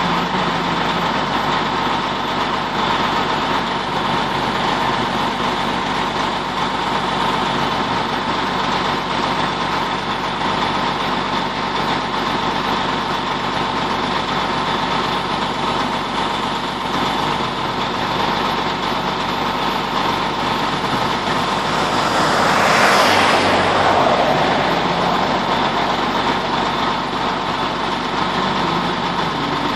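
Motor vehicle engine idling steadily. About 22 seconds in, a vehicle passes on the road, its sound swelling and then falling in pitch as it goes by.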